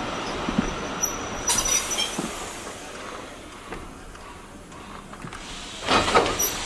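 Heritage steam-hauled railway carriage rolling along, its running noise dying away as the train slows. A short high squeal comes about a second and a half in, and a brief louder sound near the end.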